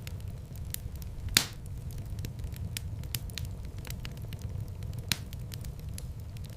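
Wood fire in a fireplace crackling, with a steady low rumble of flame under frequent small crackles. Two louder pops stand out, one about a second and a half in and another about five seconds in.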